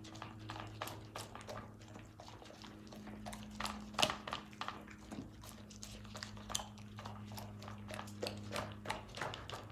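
A dog chewing and eating food: many irregular quick clicks and crunches of teeth and mouth, over a steady low hum.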